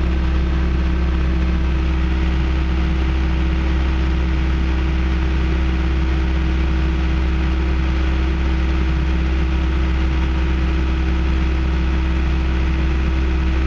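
John Deere 650J dozer's diesel engine running steadily at a little over half throttle, with an even, unchanging drone.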